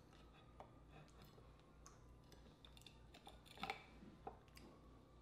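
Faint, sparse mouth clicks and smacks of someone chewing oyster with the mouth closed, with a couple of slightly louder smacks a little past the middle.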